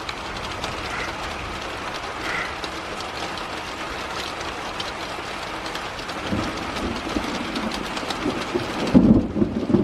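Heavy rain falling steadily, with a low rumble of thunder building from about six seconds in and loudest near the end.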